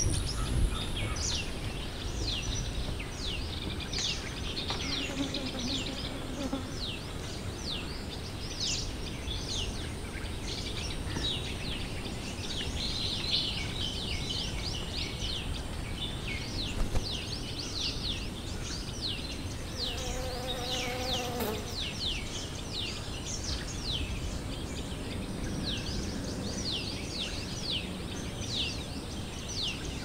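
A chorus of small birds calling: many high, short down-slurred chirps, densely overlapping, over steady low background noise. A brief lower-pitched tone sounds about two-thirds of the way through.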